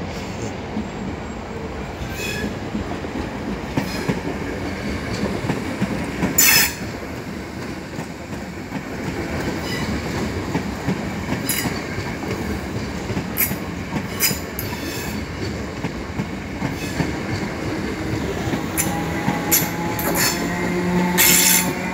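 Electric passenger train running slowly over the points and drawing past: a steady rumble of wheels on rail, broken by several sharp wheel screeches and clicks, the loudest about six seconds in and again near the end. A low motor hum comes in over the last few seconds as the train is alongside.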